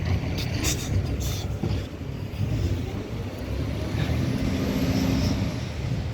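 Diesel engine of a Peterbilt 520 garbage truck with a McNeilus ZR body running, with a few sharp clanks in the first second and a half and a steady higher hum joining about four seconds in.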